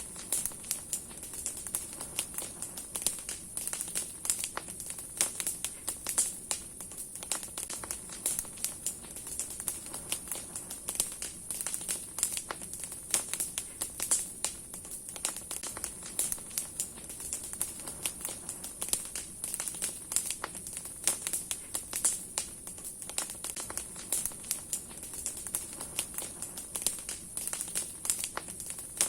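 Large campfire of burning firewood and branches crackling, with frequent irregular sharp pops over a steady hiss.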